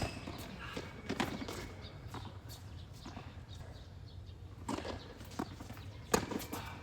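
Tennis ball being struck by rackets and bouncing on the court during a rally: sharp pops a second or more apart, the loudest about six seconds in, with footsteps scuffing between them.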